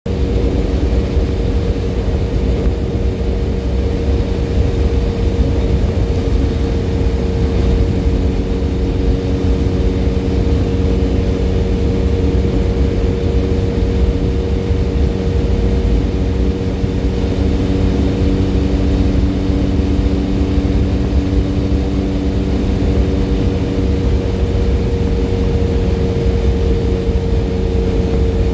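Benelli Leoncino 500 Trail's 500 cc parallel-twin engine, fitted with a MIVV Double Gun exhaust, running at a steady cruise of about 100 km/h, with wind rumble. The engine note holds steady, with no gear changes.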